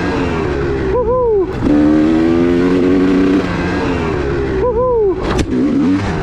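2002 Honda CR250R single-cylinder two-stroke dirt bike engine revving hard under load. Its pitch dips and climbs back twice, about a second in and again near five seconds, as the throttle is chopped and reopened. A brief sharp knock follows the second dip.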